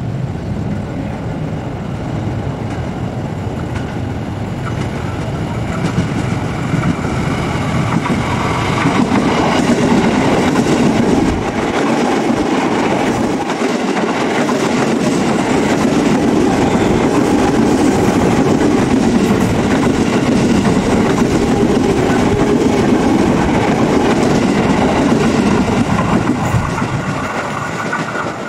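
Electric commuter train approaching and passing close by, its wheels running and clacking over the rails. It grows louder from about six seconds in, stays loud while the cars go by, and eases off near the end.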